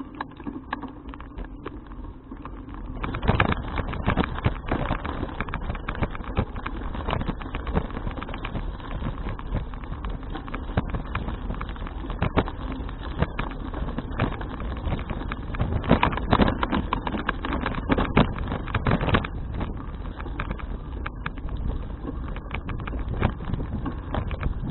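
Wind rushing over an action camera's microphone and the rattle of a folding bicycle riding over the road, with many small knocks and clicks; it gets louder about three seconds in.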